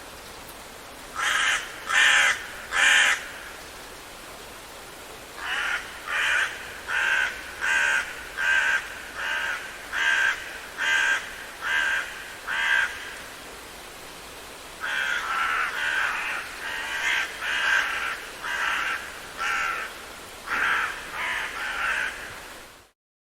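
Birds calling in series over a steady background hiss: three loud calls, then a run of about ten evenly spaced calls, then a faster run of calls. The sound cuts off abruptly just before the end.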